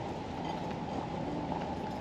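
A steady low outdoor rumble with a few faint ticks over it.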